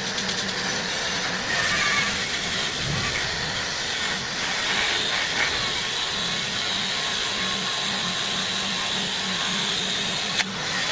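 Steady hissing machine noise over a low pulsing motor hum, with a single sharp click near the end.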